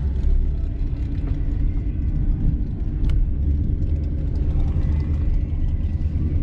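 Ford Mustang GT's 5.0 V8 with full exhaust running with a steady low rumble, engine speed holding even.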